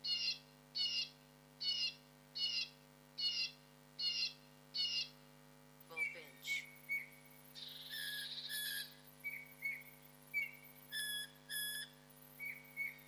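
Bird calls: one short call repeated about every 0.8 s for the first five seconds, then a different bird's short whistled notes, a brief rasp, and paired clear notes near the end.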